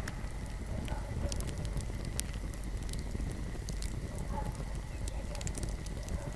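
Fire burning in a fireplace: a steady low rumble with scattered crackles and pops, one sharper pop about two seconds in.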